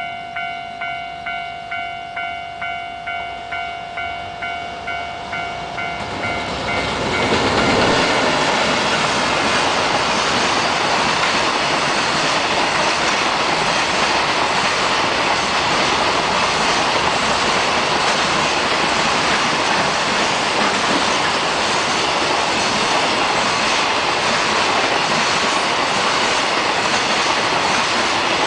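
A warning bell rings in steady pulses, a little over twice a second. About seven seconds in, a container freight train hauled by a JR Freight EF210 electric locomotive passes close by without stopping: a loud, steady rush of wheels and wagons with clickety-clack over the rail joints, covering the bell.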